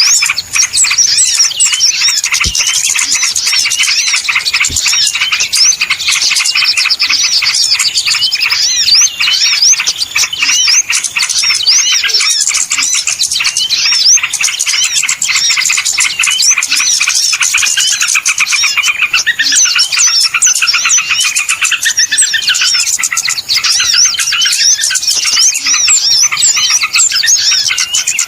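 Dense chorus of many small birds twittering and chirping rapidly and without pause, high-pitched: a small-bird lure call recording.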